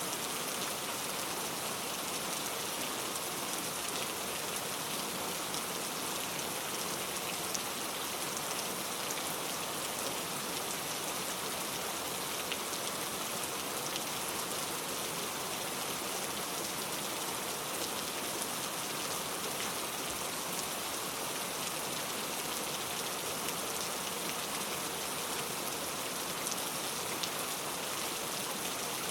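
Steady rain falling, a continuous hiss with many small drop ticks, no thunder.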